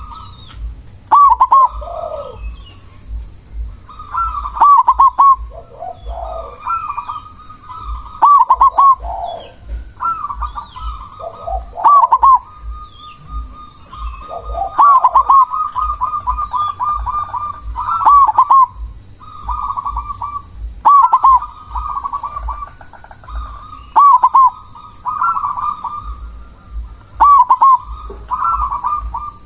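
Zebra doves (perkutut) cooing: loud phrases of quick, bouncing coo notes, a new phrase every two to three seconds, with lower coos from a second bird between them.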